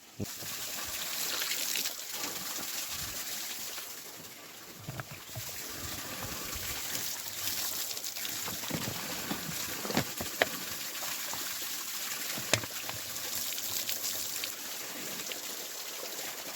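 Water running and splashing steadily from a borehole outflow, with a few sharp clicks or knocks midway.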